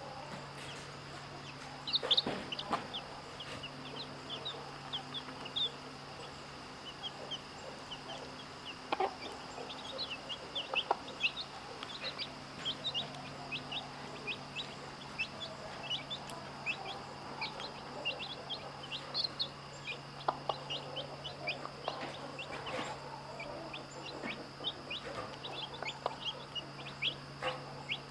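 Baby chicks peeping in short, high cheeps all the way through, with a hen clucking now and then.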